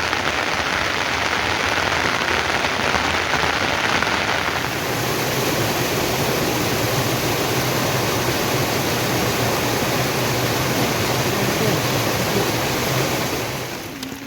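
Heavy rain falling steadily, a dense, even hiss; its character shifts about four and a half seconds in, and it eases off near the end.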